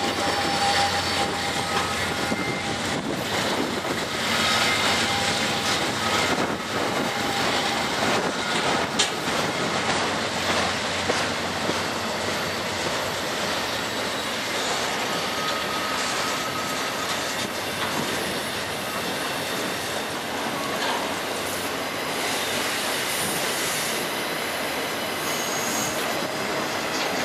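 Freight train rolling past close by: steel wheels on the rails giving a steady rumble and clatter as the autorack cars go by, with short wheel squeals now and then.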